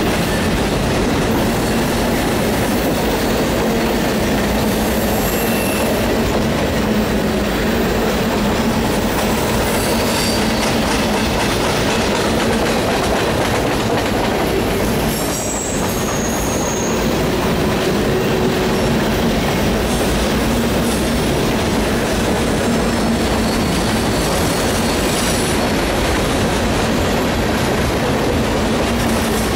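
Freight cars of a mixed freight train rolling past: a steady, loud rumble of steel wheels on the rails, with thin high wheel squeal on the curve.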